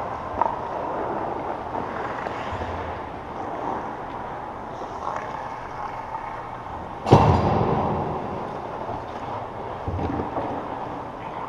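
Echoing ambience in a large sports arena: a steady hum with a few dull thumps, and one loud sharp crack about seven seconds in that rings out through the hall.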